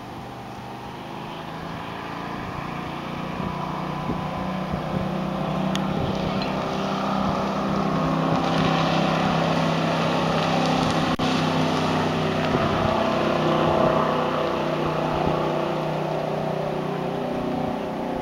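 Correct Craft Mustang motorboat's engine running at speed as the boat passes by. The steady engine note grows louder to a peak in the middle, with water rushing from about halfway through, then eases off slightly near the end.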